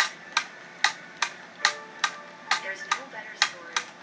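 Wind-up tin litho jumping parrot toy running, each hop making a sharp tin click in an even rhythm of about two and a half a second.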